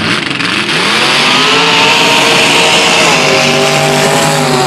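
Mud truck engine revving hard, its pitch climbing steeply over the first second and a half and then held at high revs, with a slight dip about three seconds in.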